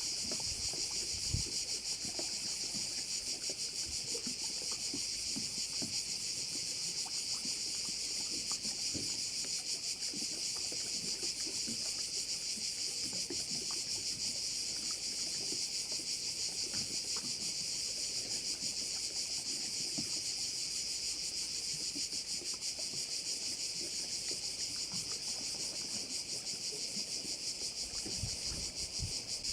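Steady, dense chorus of cicadas (Croatian cvrčci): one continuous high-pitched shrill with a fast, even pulse.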